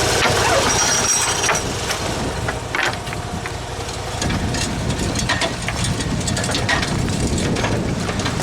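Dixon zero-turn mower's Kohler engine running steadily while the mower is driven, with scattered knocks and rattles from the machine as it moves.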